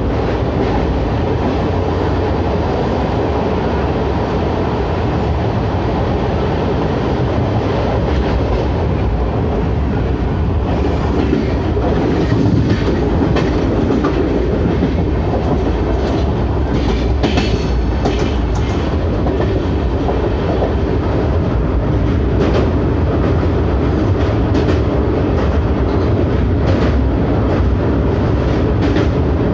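Express passenger train running along the track: a steady rumble and clatter of wheels on rails, with a run of sharper clicks and rattles about halfway through.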